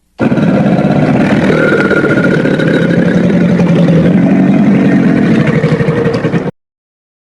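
Crocodile giving a long, low growl with a fast rattling pulse, lasting about six seconds and stopping abruptly.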